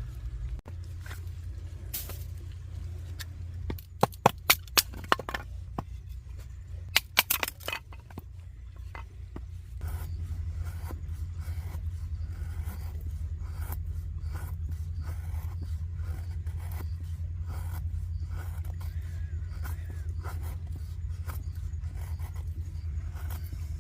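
Knife blade scraping and shaving wood in a continuous run of rasping strokes, with a few loud sharp clicks about four and seven seconds in, over a steady low rumble.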